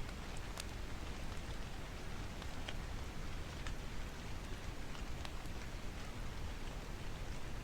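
Steady rain hiss mixed with the crackle of a wood fire: sharp, irregular pops about once a second over the even wash of rain.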